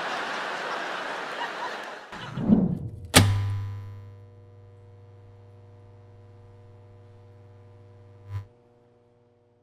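Arena crowd noise fading out, then a few low thuds and one sharp hit that rings on as a steady low musical drone for about five seconds, ending with a small click. This is an edited outro sting.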